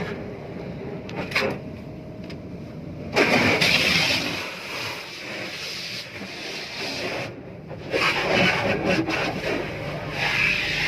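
Hissing water spray at a car wash that starts suddenly about three seconds in, breaks off for a moment past seven seconds and comes back, over a steady low vehicle hum.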